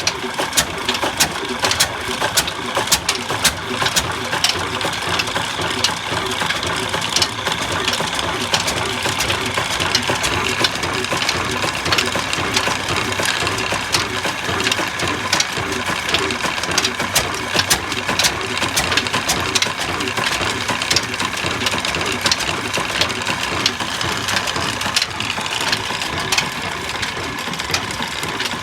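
Old black 32-horsepower Ruston oil diesel engine running steadily, with a rapid, sharp knocking clatter.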